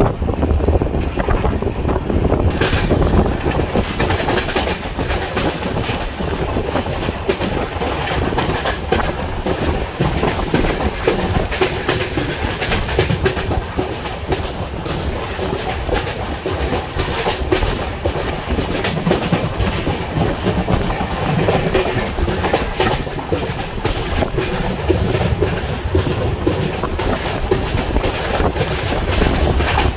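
Passenger train heard from on board while running: a steady rumble of the coach with the clickety-clack of wheels over rail joints. A hiss grows louder about two and a half seconds in.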